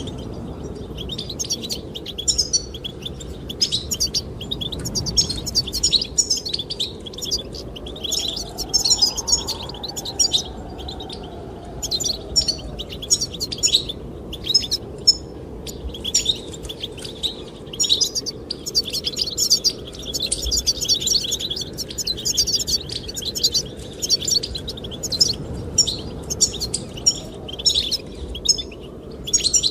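Goldfinches singing, a continuous stream of rapid twittering chirps, over a steady low rush of wind.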